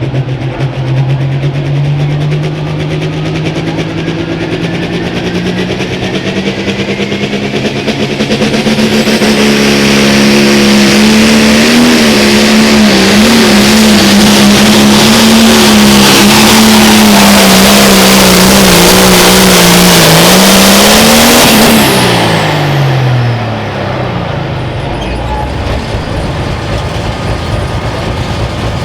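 A turbocharged diesel pulling tractor makes a full-throttle pull. The engine note climbs steadily for the first several seconds and grows much louder, then holds high and wavering for about fourteen seconds. Near the end it drops sharply as the throttle is cut, and the engine settles to a low rumble.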